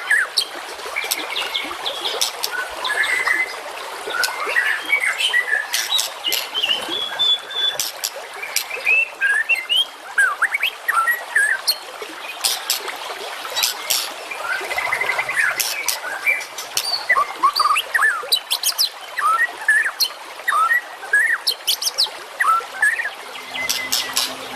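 Masteran birdsong recording for training songbirds: a dense, continuous medley of many small birds' chirps, whistled slurs and rapid sharp calls layered over one another.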